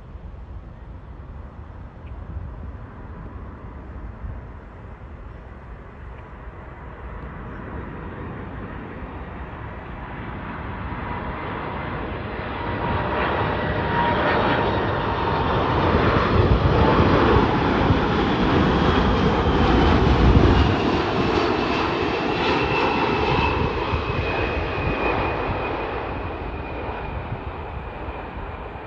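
Jet airliner passing by, its engine noise swelling to a peak about two-thirds of the way through and then fading, with the engine whine falling in pitch as it goes past.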